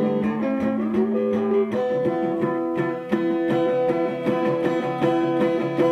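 Strummed acoustic guitar playing a steady rhythm, with sustained notes ringing and no singing.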